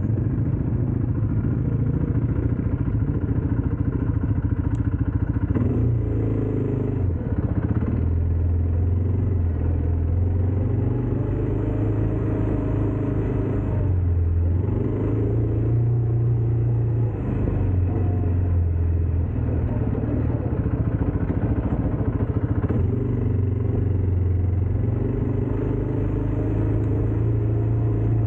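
ATV engine running while riding, its pitch rising and falling every few seconds as the throttle changes.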